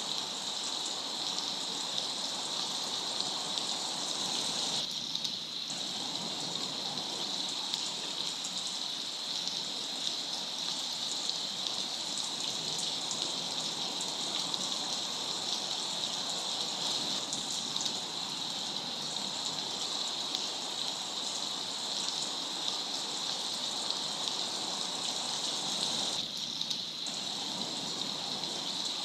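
Waterfall: a steady rush of falling water, thinning briefly twice, about five seconds in and near the end.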